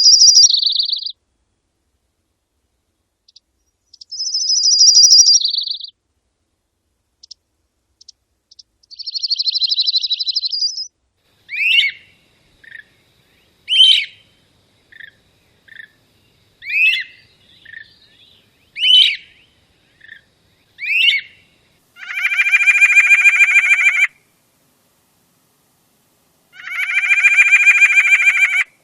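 A series of bird calls separated by clean silences: high buzzy trills of a second or two, then short slurred notes about once a second, then two harsh, nasal calls of about two seconds each near the end.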